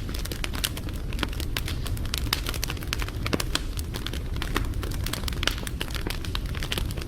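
Wood fire burning steadily, with a low rumble and frequent sharp, irregular crackles and pops.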